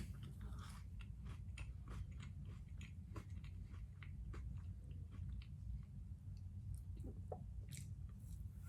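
A person chewing a mouthful of a crispy wafer protein bar, with faint irregular crunching and crackling through the whole stretch.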